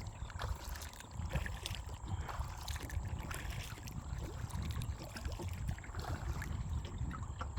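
Kayak paddling: the paddle dips and water trickles and drips off the blades in short irregular splashes, over a steady low rumble.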